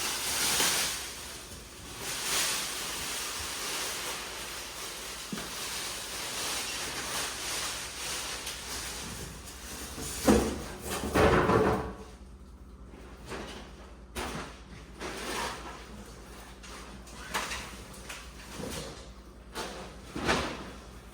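Refrigerator doors, drawers or shelves being opened and handled, with a few loud knocks and bumps about halfway through and smaller knocks after. A steady rushing noise sits under the first half.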